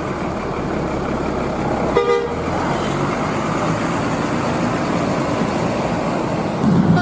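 Steady road traffic noise with a vehicle horn tooting briefly about two seconds in.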